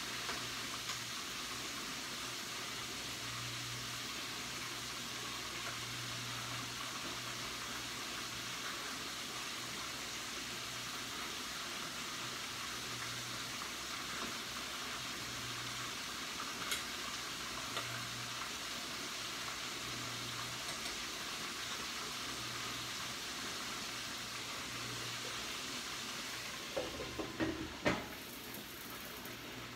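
Chicken tenders frying in a pan of hot oil with a steady sizzle, and a few light clicks as tongs turn the pieces. About two seconds before the end comes a short clatter of knocks as the lid goes onto the pan.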